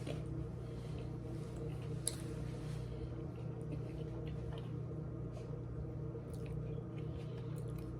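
A person chewing a mouthful of Subway tuna sandwich, with soft wet mouth clicks and a sharper click about two seconds in, over a steady low hum.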